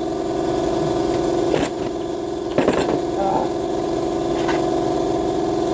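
A steady mechanical drone from a running machine, with a few sharp metallic clicks: one about one and a half seconds in, a louder one near the middle, and another near the end.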